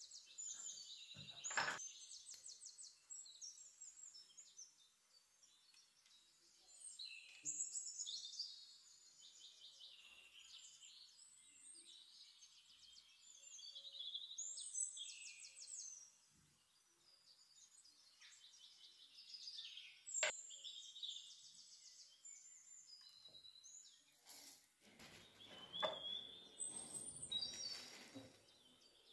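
Small birds chirping and trilling in quick repeated phrases, with a couple of sharp clicks and a brief rustle of handling near the end.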